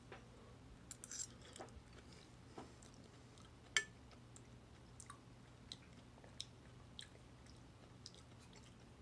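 A person quietly chewing a mouthful of canned beef chow mein noodles, with soft wet mouth clicks and smacks spaced through the chewing and one sharper click a little under four seconds in. A faint steady low hum runs underneath.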